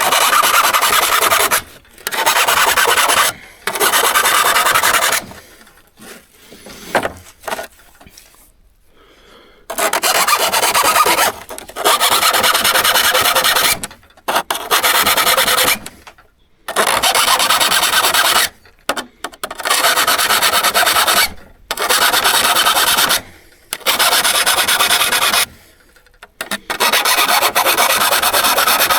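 Hand abrasion of a steel hand-saw blade: spells of steady rasping and rubbing a few seconds long, broken by short pauses, with a quieter lull of several seconds early on.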